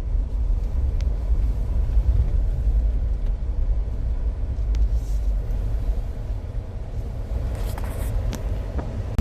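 Steady low rumble of a car driving slowly on a snow-covered, slippery road, heard from inside the cabin.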